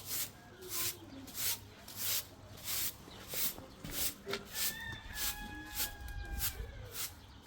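Rhythmic swishing strokes, about three every two seconds, like a repeated scrubbing or sweeping motion. About five seconds in, a high, thin call is held for nearly two seconds.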